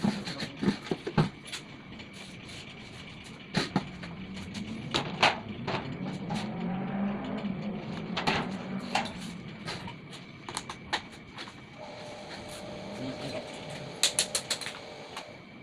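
Scattered sharp clicks and knocks of hands and tools working on an electric water pump's parts, with a low wavering hum through the middle and a steady tone near the end.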